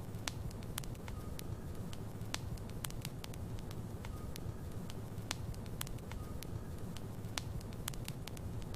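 Wood logs burning in a fireplace: a steady low rumble of the flames with frequent, irregular sharp pops and crackles from the burning wood.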